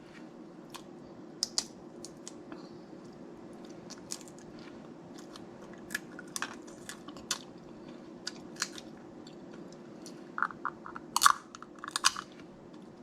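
Close-up eating of snow crab legs: chewing with sharp cracks and crunches of crab shell at irregular moments, and a quick run of cracks about ten seconds in.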